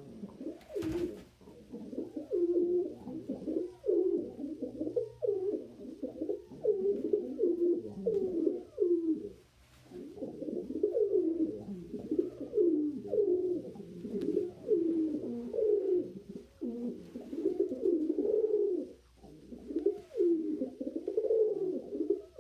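Domestic pigeon cooing over and over in long runs of low, warbling coos, with a few brief pauses.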